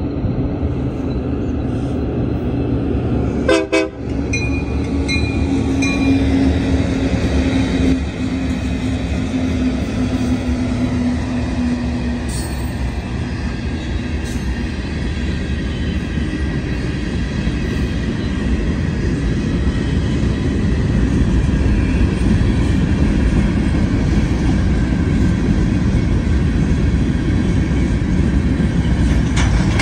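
Freight train passing close by. A few seconds in, a locomotive horn is held for several seconds and cuts off abruptly. After that comes the steady rumble and clatter of covered hoppers and boxcars rolling past, growing a little louder near the end.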